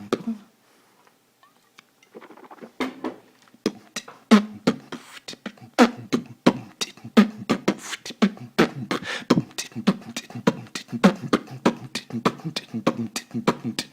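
Beatboxing: mouth-made percussion of sharp clicks, pops and snare-like hisses over a hummed bass tone. It starts after a brief pause of about two seconds and keeps up a quick rhythm.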